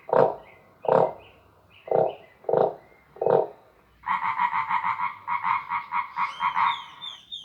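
Recorded animal calls: six short, low calls about a second apart, then a fast, evenly pulsing run of higher-pitched calls over the last three seconds.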